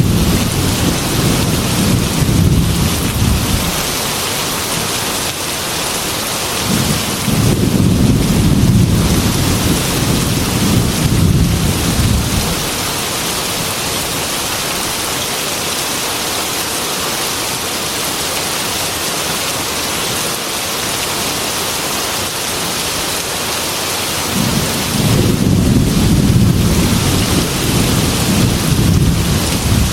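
Heavy rain pattering steadily on window glass, with long low rolls of thunder: one at the start, another from about seven to twelve seconds in, and a third in the last five seconds.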